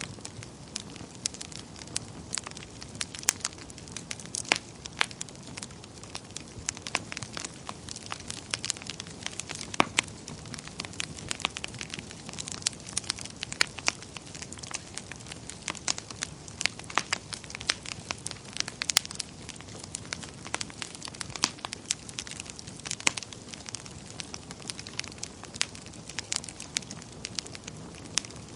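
Wood fire burning in a fireplace, with steady irregular crackling and sharp pops from the logs over a soft rushing of the flames.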